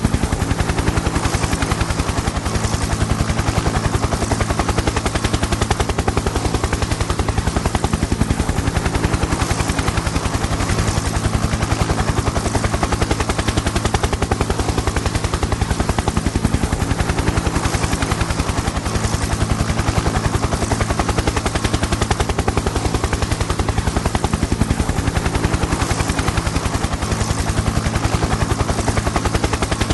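Helicopter in flight, its rotor blades chopping rapidly and evenly over a steady engine drone.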